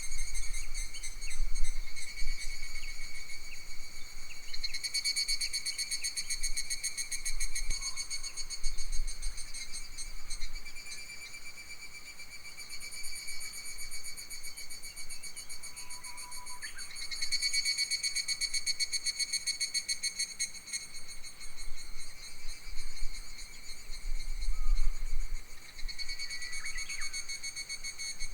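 An insect trilling continuously in a summer forest, a fine rapid pulsing that swells and fades several times. A few brief bird chirps come in around the middle and near the end, over a low rumble of wind on the microphone.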